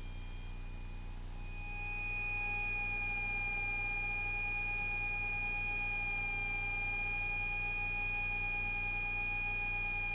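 A steady, high-pitched electronic tone that comes in about a second and a half in and holds evenly, over the low, steady hum of the Cessna 172S's idling engine as heard through the cockpit intercom.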